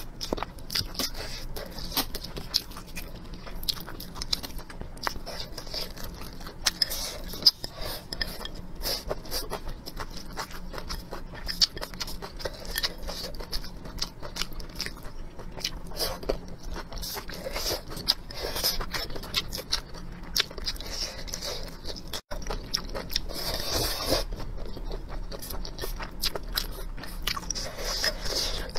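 Close-miked mouth sounds of someone eating roast duck and rice: wet chewing and biting with many small crunches and clicks.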